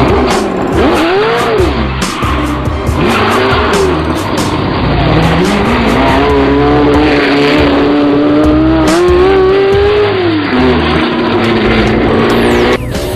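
Sports car engine revving, its pitch swinging up and down, then climbing slowly through the middle and dropping back to a steady note. It cuts off abruptly near the end. Background music with a pulsing bass runs underneath.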